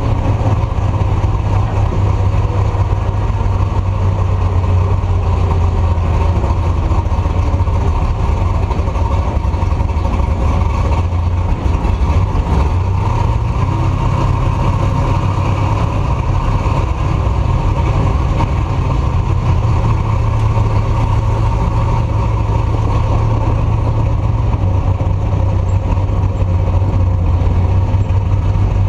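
Truck engine and exhaust droning steadily on the road, with wind and road noise on a camera mounted at the back of the truck. The engine note rises slightly about halfway through.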